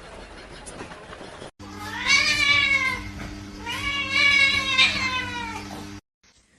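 A cat giving two long, drawn-out meows, each rising and then falling in pitch, over a steady low hum.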